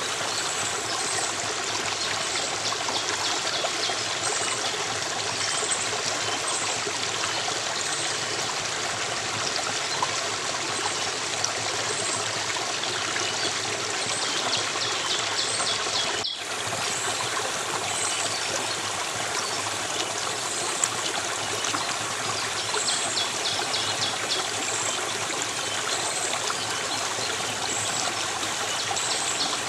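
Steady rush of running water from a flowing stream. The sound briefly cuts out for an instant about sixteen seconds in.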